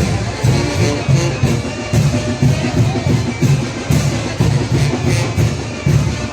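Mexican wind band (banda de viento) playing a chinelo dance tune: brass melody over a steady bass drum and cymbal beat, about two beats a second.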